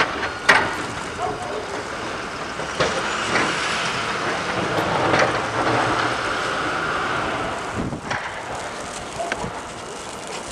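A motor vehicle passing on the street: a steady rushing noise that swells in the middle and fades after about eight seconds, with a few sharp knocks, the loudest about half a second in.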